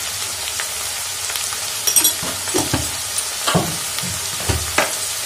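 Potatoes, onion and poi saag stems frying in oil in a kadai: a steady sizzle. Between about two and five seconds in there are a few light knocks.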